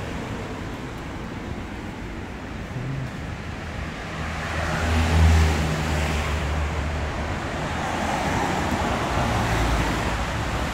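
City street traffic: a steady wash of road noise, with a motor vehicle's engine rumbling close by about halfway through, the loudest moment.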